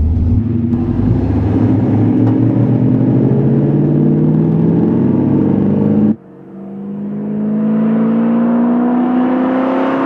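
Hot rod engine accelerating hard, its pitch climbing steadily. About six seconds in the sound drops abruptly and comes back lower in pitch, then climbs again.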